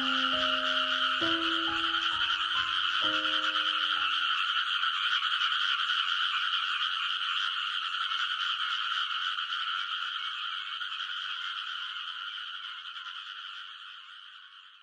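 Dense chorus of many Numa frogs (Japanese rice frogs) calling together from a rice paddy, a steady, unbroken wall of croaking that fades out near the end. A few sustained music notes sound over it in the first few seconds.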